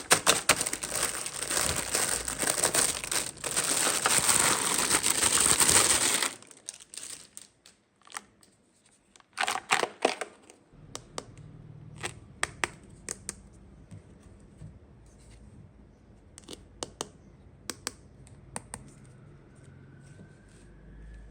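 Toy packaging being crinkled and torn open by hand: loud, dense crinkling for about six seconds. It stops abruptly, giving way to scattered small clicks and taps, with a short rustle about nine seconds in.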